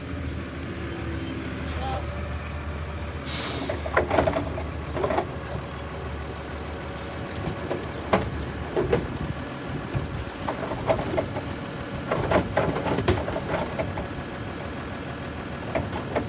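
Garbage truck engine running steadily, with high squealing tones and a short air-brake hiss about three seconds in, then a run of knocks and clatter as a trash cart is picked up and dumped.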